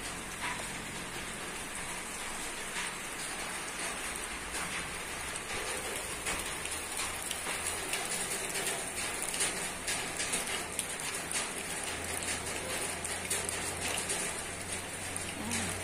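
Rain falling on a roof: a steady patter with many separate drops ticking, which grows denser a few seconds in.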